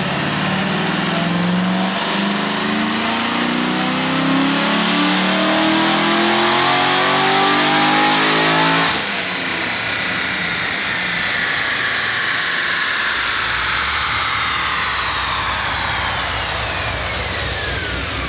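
Corvette Z06's 7.0-litre LS7 V8, with heads, cam and headers, making a full-throttle pull on a chassis dyno: the revs climb steadily for about nine seconds, then cut off sharply as the throttle is lifted, and the driveline and dyno rollers coast down with a falling whine. The pull makes good power but runs a little lean.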